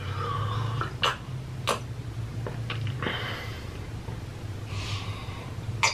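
Close-miked eating sounds: several sharp mouth smacks and clicks from chewing, and breaths through the nose, over a steady low hum.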